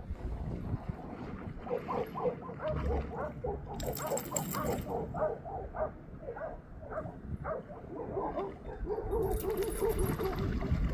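Dogs barking and yipping in play, quick short calls several a second, turning to a denser run of yips and whines in the last few seconds. Wind rumbles on the microphone.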